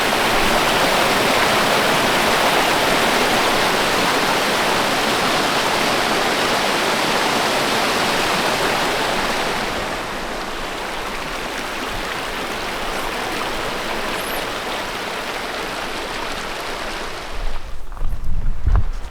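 Mountain stream rushing below a footbridge, a steady loud roar of water that softens about halfway through and fades out near the end, where low uneven bumps take over.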